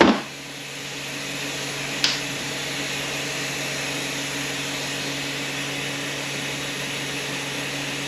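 A knock, then a steady machine whir that comes up over about a second and runs on evenly, with a low hum under it and a single click about two seconds in.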